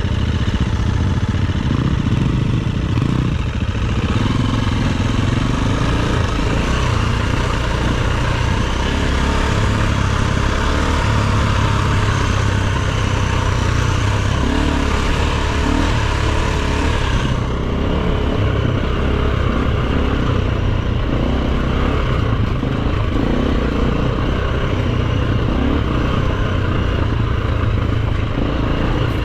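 Dirt bike engine running steadily as it is ridden off-road, with rattling and hiss over it; the hiss in the upper range drops away about two-thirds of the way through.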